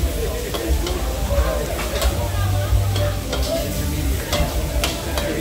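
Food sizzling as it fries in a pan while a metal utensil stirs it, with irregular clicks of the utensil striking the pan.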